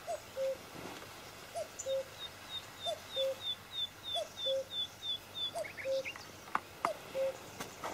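Birds calling: one bird repeats a low two-note call about every second and a half, while another gives a quick run of short, high chirps in the middle. A few sharp clicks sound near the end.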